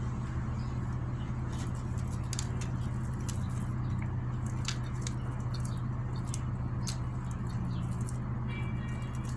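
Close-up eating sounds: a person chewing food with many small wet mouth clicks and smacks, over a steady low hum.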